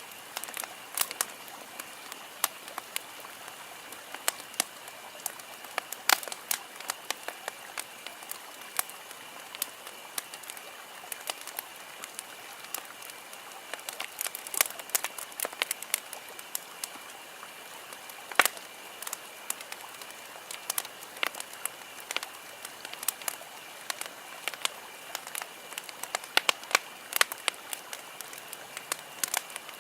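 Campfire crackling: burning wood gives off irregular sharp pops and snaps over a steady soft hiss.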